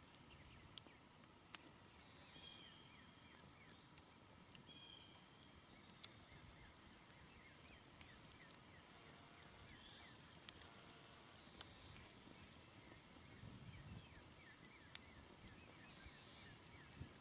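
Faint crackling of a smoldering campfire, scattered sharp pops and ticks from the burning wood, with distant birds chirping.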